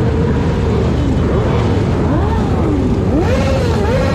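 Steady loud rumble of wind and road traffic, with pitched sounds rising and falling in pitch over it, strongest near the end.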